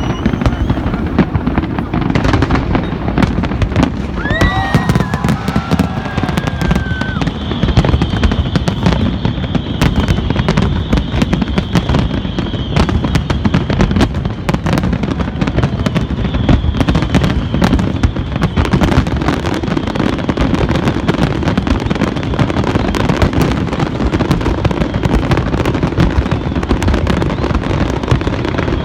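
Fireworks display going off in a dense, continuous barrage of rapid bangs and crackling over a low rumble. Several high whistling tones come in the first half.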